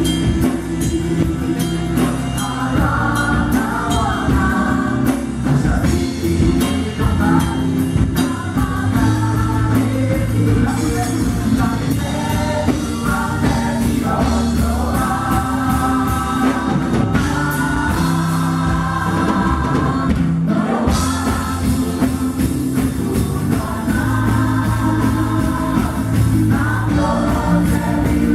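Contemporary gospel music: a band with drums playing under several voices singing together.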